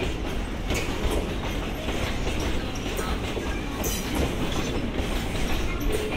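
A train rolling past, its wheels clacking over the rail joints over a steady rumble.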